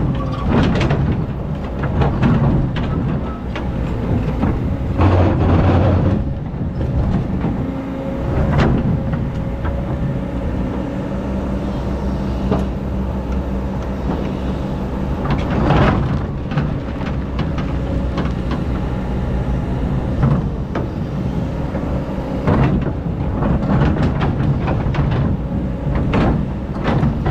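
Hydraulic excavator working: its diesel engine runs steadily under a thin hydraulic whine, with clanks and scrapes from the bucket and arm every few seconds.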